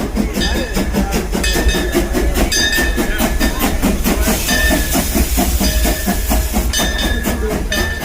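Narrow-gauge steam train running, with a steady rhythmic clatter of the locomotive and coaches, a low rumble, and a burst of steam hiss about halfway through.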